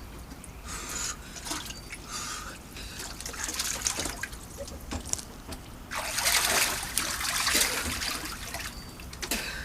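Water splashing and trickling in irregular bursts, loudest about six seconds in.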